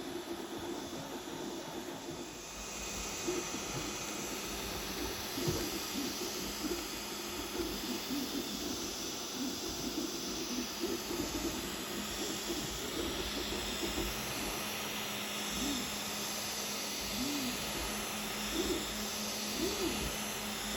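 Creality Ender-3 3D printer mid-print: a steady fan hiss with the stepper motors making short, changing pitched whirs as the print head moves.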